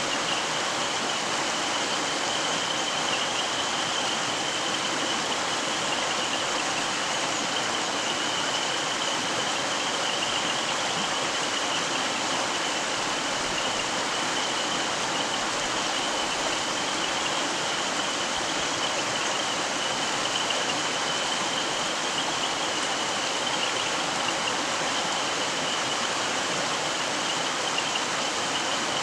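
Mountain stream running over rocks, a steady rushing and rippling of water, with a faint steady high-pitched tone above it.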